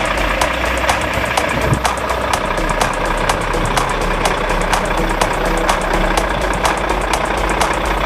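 Volvo FM 360 tipper truck's diesel engine running steadily, with a regular sharp ticking throughout.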